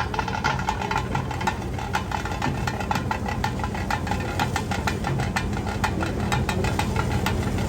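An engine idling steadily with a low hum and a fast, regular clatter.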